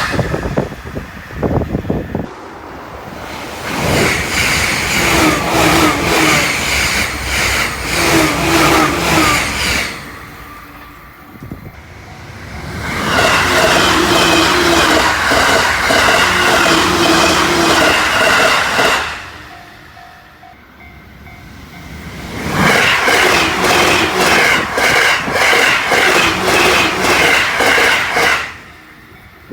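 Trains on the JR Joban Line passing one after another at over 120 km/h. Each pass is about six seconds of loud rushing wheel and rail noise, with a rapid run of clacks as the wheels cross rail joints. Quieter lulls fall between the passes.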